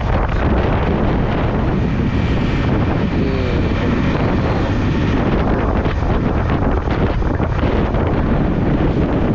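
Steady wind rush buffeting the microphone of a motorcycle riding at speed, with the Yamaha R15M's engine running beneath it.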